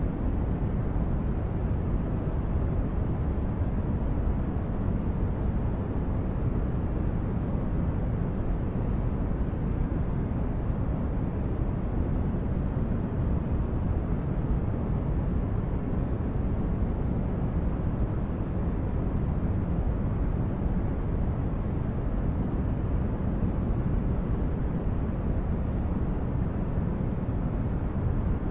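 Synthesized sci-fi spaceship ambience: a steady, deep brown-noise hum of a starship interior, even throughout with no distinct events.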